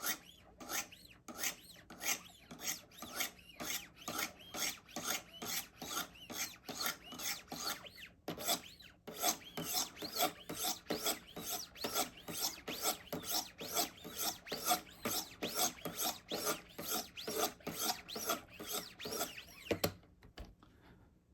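Wicked Edge Go's 300-grit sharpening stones stroked by hand along a knife edge in quick, evenly repeated scrapes, about two to three a second, with a short pause about eight seconds in. This grit stage smooths out the scratches left by the coarser 100-grit stones. The strokes stop near the end.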